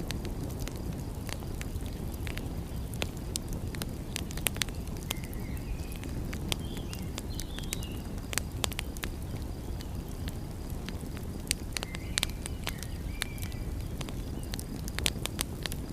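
Wood fire crackling, with irregular sharp pops over a steady low rush. Short high chirps come a few times.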